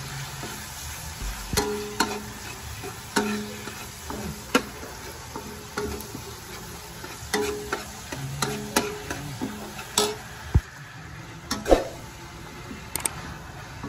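Pork belly frying in oil with garlic and shallots in a metal wok, sizzling steadily, while a metal spatula stirs and scrapes, clicking against the wok about a dozen times.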